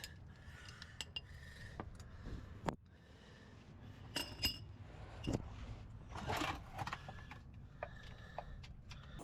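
Hand tools clinking on metal while the rear differential drain and fill plugs are worked loose: scattered light metallic clicks and taps at irregular intervals, a few with a short ring.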